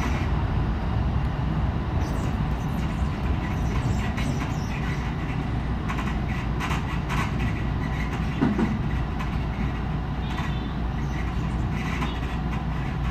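Electric local commuter train running, heard from just behind the driver's cab: a steady low running rumble with scattered clacks of the wheels over rail joints, as the train draws into a station stop.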